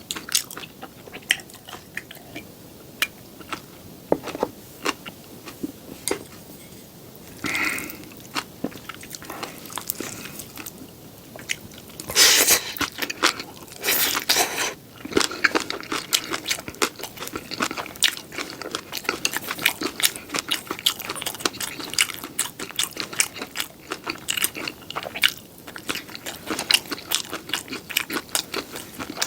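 Close-miked eating sounds: biting into and chewing seafood pajeon, with many quick crunchy clicks. Two louder, longer bursts come about halfway through, followed by fast, dense chewing.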